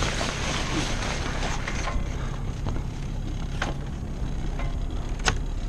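A sailboat's engine running steadily at low revs, with a few sharp clicks and knocks of deck hardware as the mainsail is raised.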